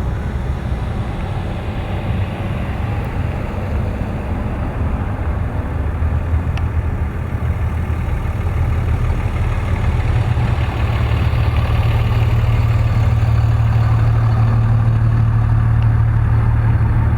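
Ram pickup truck engines running in a slow procession, a low steady rumble that grows louder about ten seconds in as a hum settles in.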